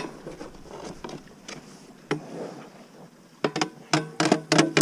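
Sharp knocks and clatters: one at the start and a few scattered ones, then a quick run of louder knocks, some with a brief ring, near the end.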